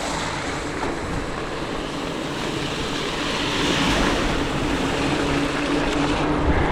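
Steady rushing of wind over the microphone and bicycle tyres on a wet, waterlogged road while riding in rain. A faint steady hum joins about two seconds in.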